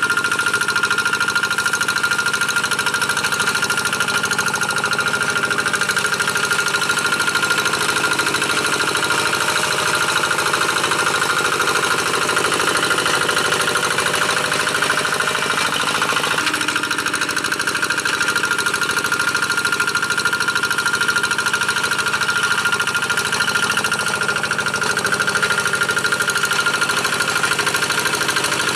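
Single-cylinder diesel engine of a G1000 two-wheel paddy tractor running steadily with a steady high tone over it, as it pulls a moldboard plough through dry paddy soil.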